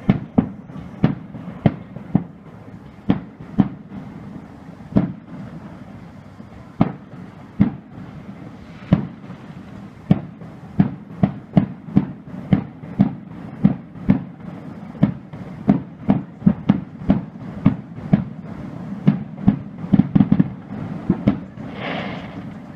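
Fireworks display: a long run of sharp bangs from shells bursting, about one to three a second, coming faster near the end, with a short hiss just before the end.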